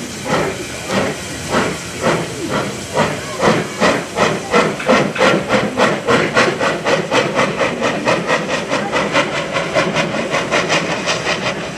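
JNR C57 1, a two-cylinder steam locomotive, accelerating hard under its own power. Its exhaust chuffs start about two a second and quicken steadily to four or five a second, then begin to run together near the end.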